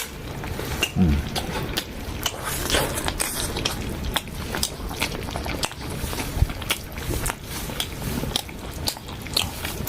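A person eating stewed meat up close: chewing and biting, with irregular wet smacking clicks of the mouth.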